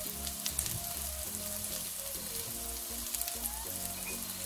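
Sliced onions and green chillies frying in butter in a pan, sizzling with many small crackles. Background music plays underneath.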